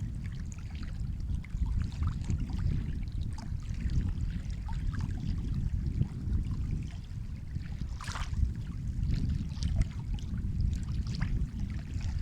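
Sea water washing at the shore: a steady low rumble of waves with small splashes and trickles scattered over it, and one sharper splash about eight seconds in.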